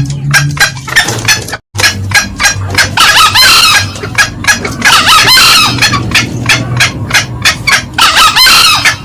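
Green junglefowl calls from a loud lure recording: a fast run of sharp cackling notes throughout, with three longer crows about three, five and eight seconds in. The sound cuts out completely for an instant just before two seconds.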